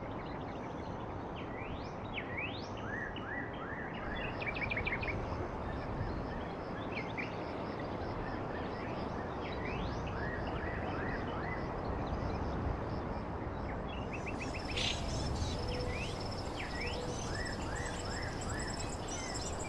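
Birds chirping and calling again and again, in short rising whistles and quick runs of chirps, over a steady background hiss.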